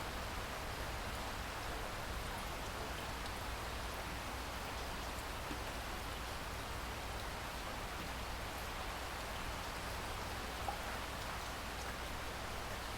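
Steady rain falling, an even hiss with scattered individual drop ticks and a low rumble underneath.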